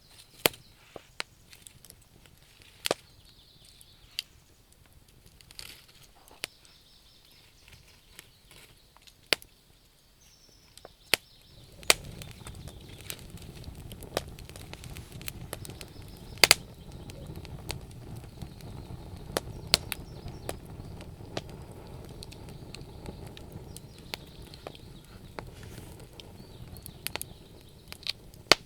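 Wood fire crackling, with sharp pops scattered irregularly throughout. About twelve seconds in, a steady low rushing sound comes in beneath the crackles.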